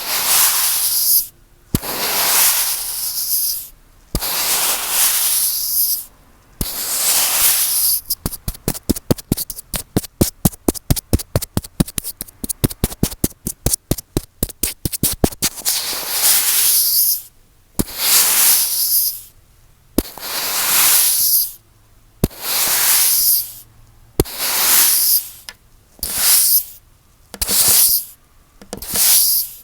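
Earphone microphone rubbed or scraped directly, in loud rushing strokes of about a second each, with a fast run of sharp clicks for several seconds in the middle.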